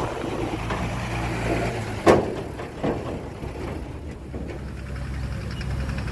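Heavy diesel engine running steadily at low revs, with a loud clanking knock about two seconds in and a smaller one shortly after.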